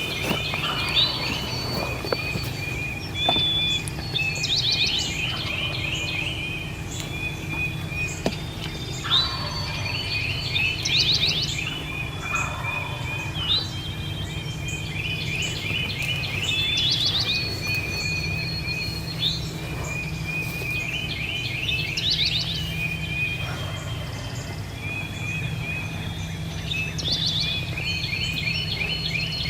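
Dawn chorus of songbirds singing repeated trilled phrases every few seconds over a steady low rumble. Several times a fainter, lower rattling call comes through, like wild turkey gobbles in the distance.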